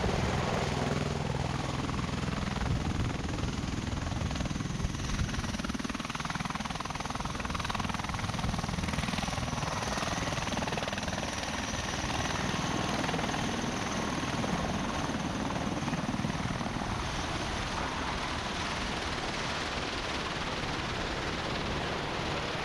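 Bell Boeing MV-22 Osprey tiltrotor in flight: its two proprotors and turboshaft engines make a steady rotor chop.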